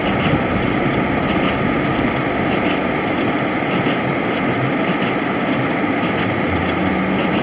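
Steady in-cabin running noise of a V6 Dodge Challenger driving on a snowy, icy road: engine and tyre noise together.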